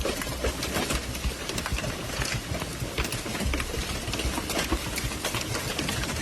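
Large hailstones falling and striking hard surfaces, a dense, irregular clatter of many sharp hits.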